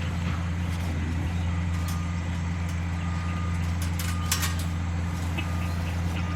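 Engine of the neighbour's heavy earthmoving machinery running steadily, with a backup alarm beeping from about two seconds in. A sharp metallic clank comes about four seconds in.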